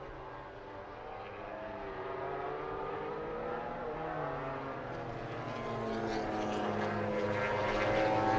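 MotoGP motorcycle engines at racing speed, their pitch sliding up and down, growing louder over the last few seconds.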